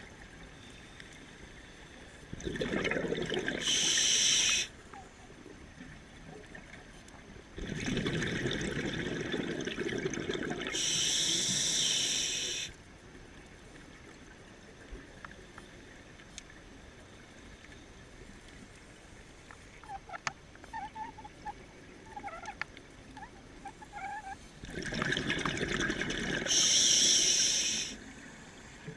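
Scuba diver breathing through a regulator underwater: three breaths, each a rush of exhaled bubbles followed by the high hiss of an inhalation through the demand valve, with quieter pauses between them.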